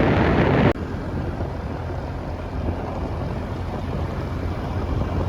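Wind buffeting the microphone of a moving motorbike, cutting off abruptly under a second in. A quieter, steady low engine hum with road and wind noise follows.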